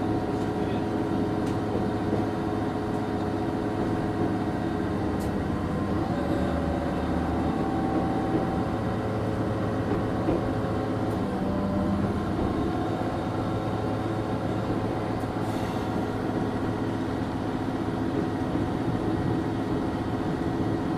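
Regional train running slowly along a rough single-track line, heard from inside the carriage: a steady engine hum over continuous wheel and track noise.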